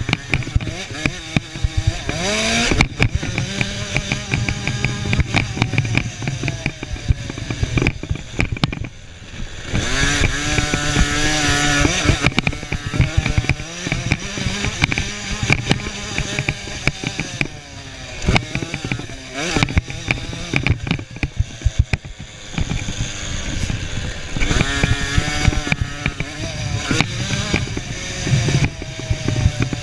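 Small 50 cc two-stroke motocross bike engines revving hard. Their pitch climbs and drops again and again as they accelerate and back off, with many short crackles throughout.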